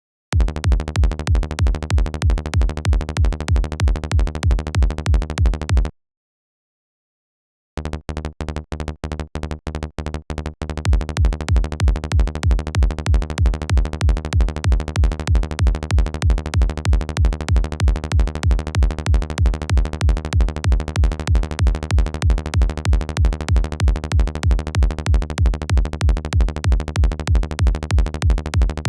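Synthesized electronic kick drum and synth bass looping in a pumping pattern of about four hits a second. It stops for about two seconds, comes back quieter, and returns at full level about ten seconds in.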